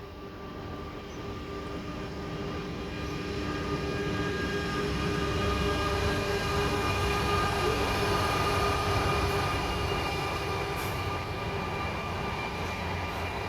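Train passing, growing louder to a peak around the middle and easing slightly near the end, with steady whining tones over a low rumble.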